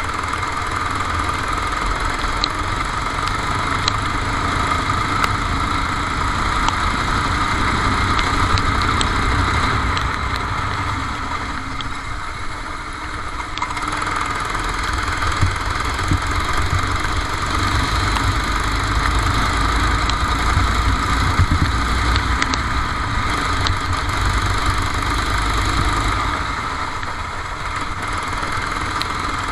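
Kart engine running continuously over a heavy low rumble, as heard onboard. It eases off briefly about twelve seconds in and again near the end, then picks up again.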